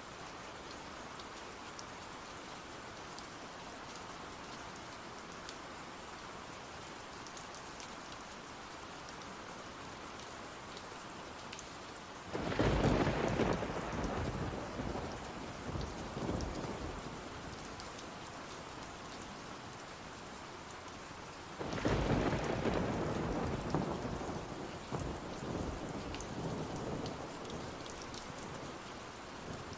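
Steady rain with two rumbles of thunder, about 12 seconds and 22 seconds in, each starting suddenly and fading away over several seconds.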